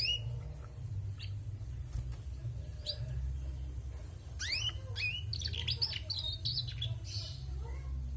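Female canary chirping: a few separate rising chirps, then a quick run of chirps about halfway through. A steady low hum runs underneath.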